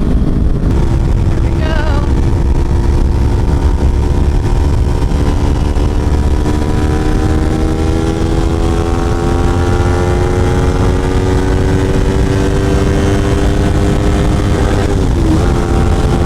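Kawasaki Ninja 400 parallel-twin engine pulling under way, its pitch climbing slowly as the bike gathers speed, then dipping sharply about fifteen seconds in before steadying, over heavy low wind rumble.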